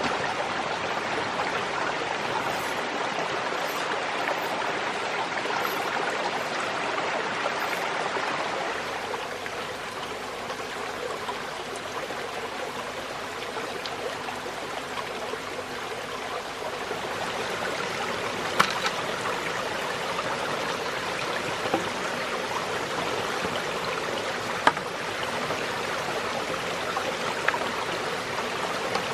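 A forest stream flowing steadily, with a few sharp knocks or clicks in the second half.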